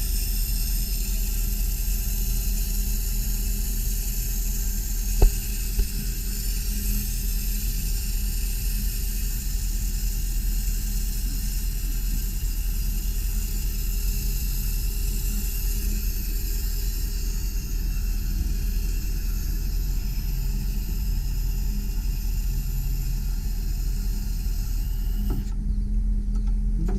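A bucket truck's engine running while its hydraulic boom is operated, a steady low rumble under a high hiss. Two sharp knocks come about five seconds in, and the hiss cuts off near the end.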